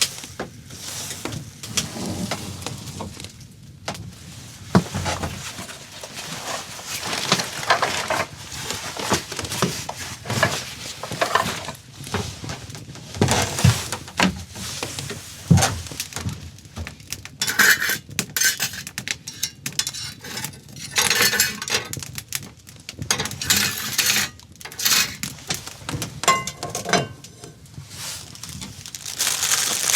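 Objects being handled: irregular clinks, knocks and rustling that come and go, with no steady sound beneath them.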